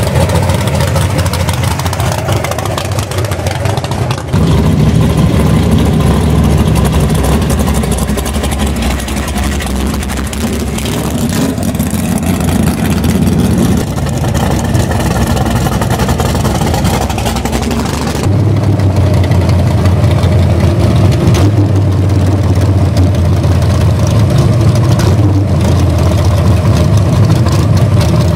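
Drag race car engines running loud, idling and revving, with abrupt changes in pitch and level about four seconds in, around halfway and about two-thirds of the way through.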